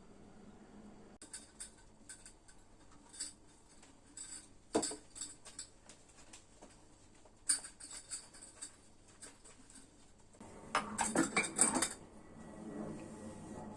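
Kitchenware being handled: scattered light clinks and knocks of pots, lids and utensils, with a dense flurry of clatter about ten to twelve seconds in.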